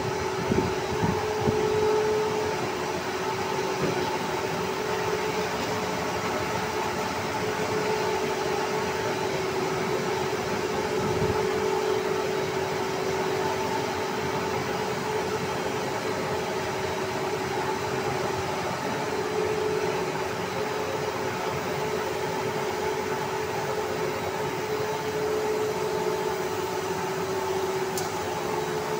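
Stretch film extrusion line running: a steady industrial hum with a constant pitched whine, and a few knocks in the first couple of seconds.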